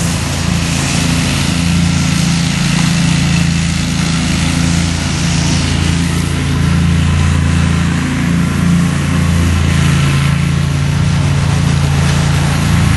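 A small engine running steadily at an even speed throughout.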